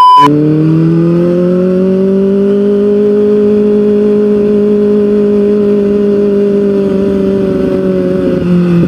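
Kawasaki ZX-25R's 250cc inline-four engine running at a steady, fairly high pitch while riding, rising a little in the first seconds, holding, then easing off slightly near the end. A brief test-tone beep ends just after the start.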